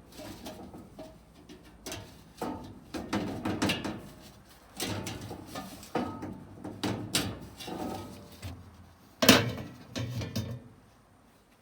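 Hammer knocking dents out of a steel muffler shell: irregular blows and clatter with some scraping, and one sharp, loud strike about nine seconds in.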